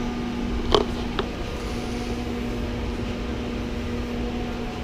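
A steady low mechanical hum, with a sharp click a little under a second in and a fainter one shortly after.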